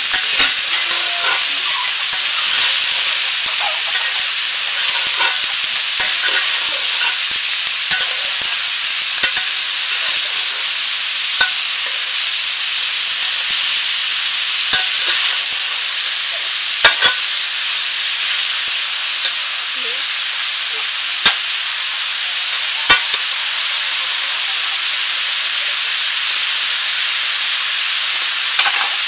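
Chopped onion leaves sizzling steadily in hot oil in a metal karahi, stirred with a metal spatula that scrapes and knocks against the pan in sharp clicks every second or two.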